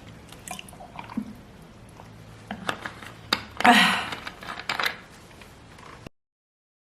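A person drinking water: small clicks and wet swallowing sounds, with a loud, breathy sound a little past halfway.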